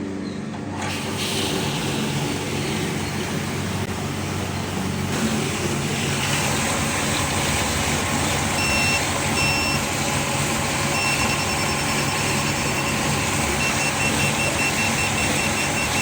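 Commercial glasswasher running: a steady hum with a rushing noise that grows louder about a second in and again near five seconds. From about nine seconds on, a high electronic beep sounds repeatedly in short runs.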